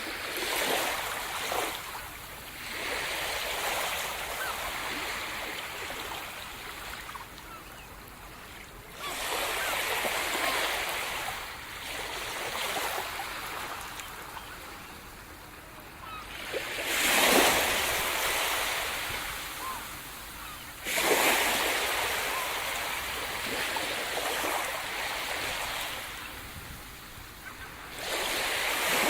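Sea surf: waves rolling in and washing up the shore one after another, each a swelling hiss that fades, about every four to eight seconds, the loudest two coming past the middle.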